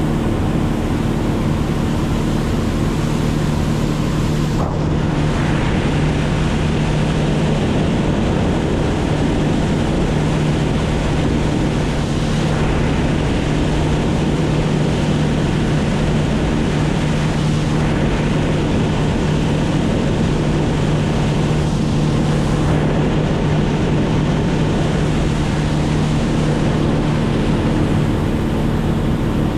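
An engine drones steadily at a constant pitch, with heavy wind rush on the microphone.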